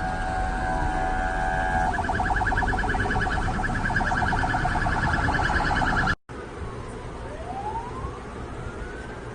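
Emergency vehicle sirens. A steady tone switches about two seconds in to a fast pulsing yelp. After an abrupt cut, a fainter siren wails slowly up and then starts back down.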